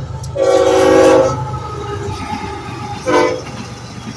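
Train horn sounding a long blast about half a second in and a short blast near the end, over the steady rumble of the passing train.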